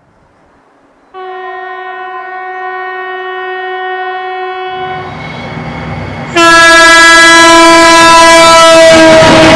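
Locomotive air horn (typhon) sounding one long steady note, then, as the train draws close with a growing rumble, a second much louder and slightly lower blast over the noise of the train passing.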